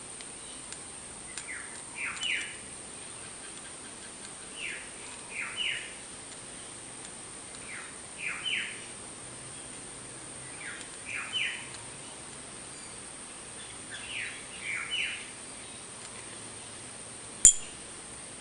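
A bird repeats a short phrase of two or three quick rising chirps about every three seconds. Near the end, one sharp click as a small neodymium magnet jumps across and snaps onto a 316L stainless steel tube.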